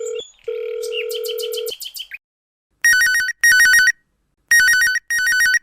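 A steady telephone line tone with a short break, stopping about a second and a half in, then an electronic phone ringtone: a rapid warble between two pitches, sounding as two double rings.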